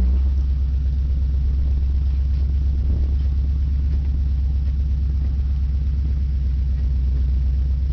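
A 1990 Chevrolet Caprice 9C1's 350 V8 on straight headers running at low revs: a loud, steady low rumble with an even, rapid pulse.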